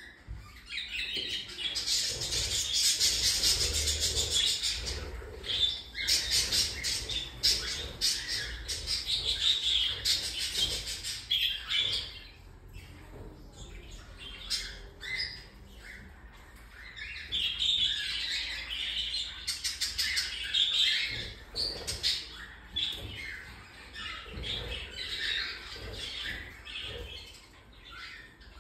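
Cockatiel chicks calling in long runs of rapid, pulsing chirps, loudest in the first third and again a little past the middle, with quieter stretches between.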